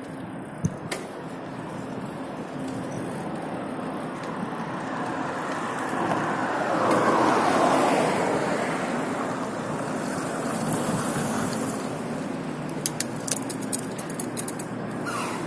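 Road traffic noise heard while riding through city streets, a steady roar with a vehicle passing close by about halfway through, its sound swelling and falling in pitch as it goes. A few sharp clicks near the end.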